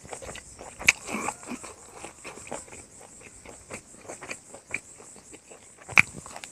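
Close-up chewing and lip-smacking of a mouthful of rice, with two sharp smacks, one about a second in and one near the end, over a steady high chirring of insects.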